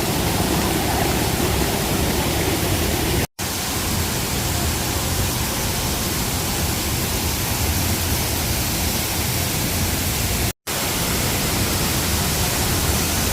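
Waterfall: a steady, loud rush of falling water. It cuts out for an instant twice, about three seconds in and near ten and a half seconds.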